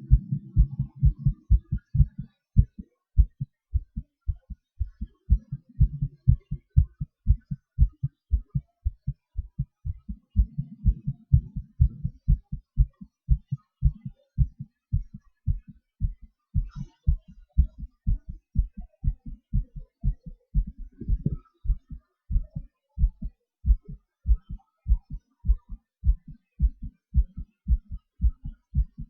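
A human heartbeat heard close up through the chest: a steady, even run of low thumps in the lub-dub pattern that goes on throughout. A soft low rush sits under the beats near the start and again about six and about eleven seconds in.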